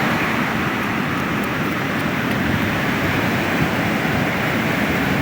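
Ocean surf: waves breaking and washing up the beach in a steady rush.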